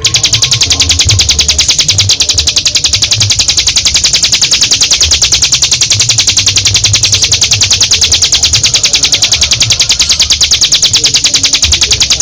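Ciblek gunung (a prinia) giving its long 'ngebren' trill: a continuous, very fast rattle of high, evenly repeated notes that runs unbroken.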